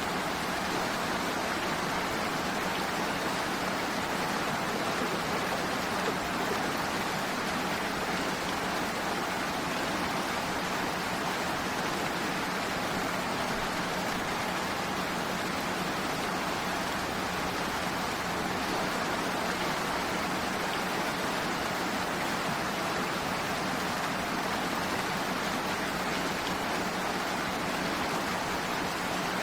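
Steady rain, an even hiss with no separate drops or changes.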